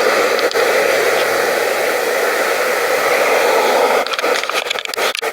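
Loud, steady rushing noise on the microphone that drowns out everything else, giving way about four seconds in to irregular crackling and scraping handling noise.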